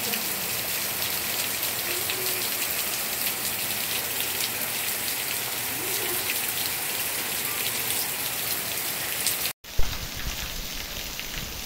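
Steady rain falling, a dense even hiss. It cuts out for an instant about nine and a half seconds in, then carries on with more low rumble.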